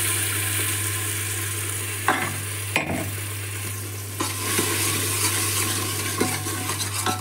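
Tomato purée sizzling as it hits hot mustard oil and fried onions in a pressure cooker, stirred with a metal ladle that clicks against the pot a few times.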